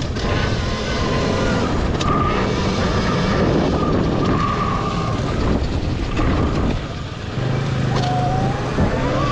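Revolt electric dirt bike being ridden: a thin motor whine that wavers up and down in pitch with speed, over heavy wind noise on the microphone.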